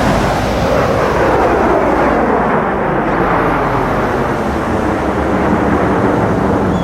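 Jet noise from USAF Thunderbirds F-16 fighters flying past: a loud, steady roar with a tone that falls in pitch as the jets go by.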